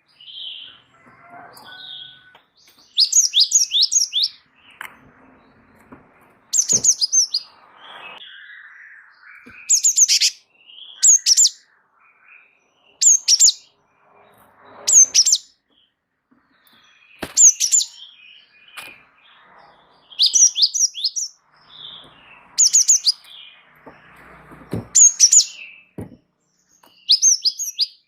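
Gelatik wingko (cinereous tit) singing a rolling song: short high phrases of three to five quick notes, repeated every one to three seconds, with softer chirps and a few faint clicks in between.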